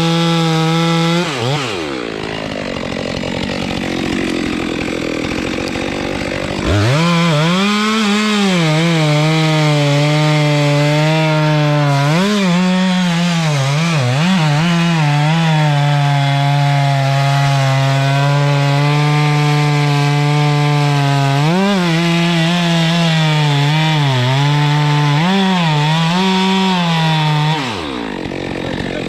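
Chainsaw running at high revs, dropping back to idle about a second in, then revving up again near seven seconds. It holds high with its pitch dipping briefly several times, then falls back near the end.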